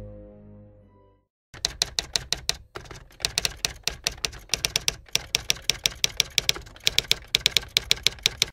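Music fades out over the first second. Then typewriter keys clack in quick runs, about six to eight keystrokes a second with brief pauses between the runs, as text is typed out.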